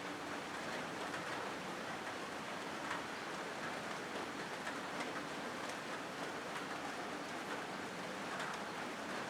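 Steady rain falling on a corrugated zinc sheet roof: an even patter with scattered individual drop ticks.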